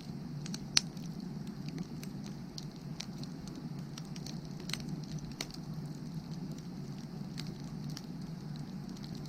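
Firewood burning, with irregular crackles and pops and one sharp, loud pop about a second in, over a steady low rush from the fire.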